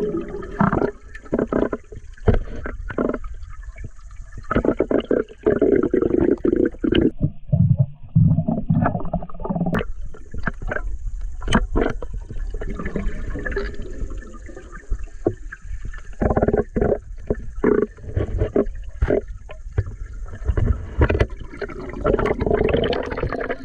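Water churning and gurgling with many irregular knocks and thumps.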